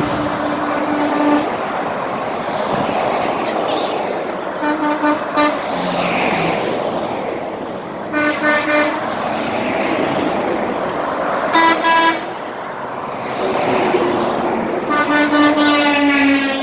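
Truck horns honking repeatedly as a convoy of trucks drives past, about five honks, some as quick runs of short toots, over the steady noise of engines and tyres.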